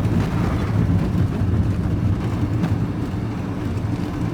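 Steady engine and road noise heard inside the cab of a lorry on the move.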